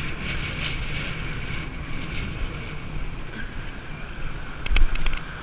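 Steady rumbling wind noise on the microphone while riding a bicycle, with a quick clatter of a few sharp knocks near the end.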